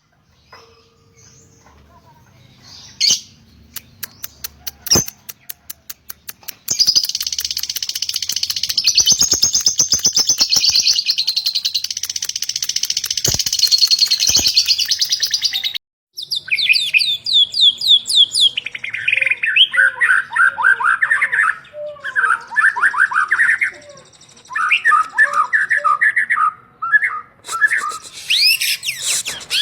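Lovebird and white-rumped shama singing in turn. After a few quiet clicks, a long, continuous high chattering trill starts about a quarter of the way in and stops suddenly at about the halfway point. Loud, varied whistled phrases with rising and falling glides follow.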